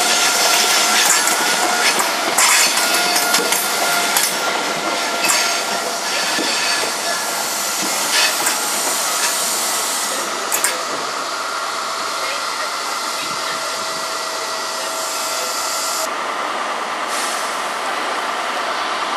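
First Great Western High Speed Train's Mark 3 coaches rolling past close by, with steady wheel and rail noise and sharp clicks over rail joints in the first half. A whine comes in near the end.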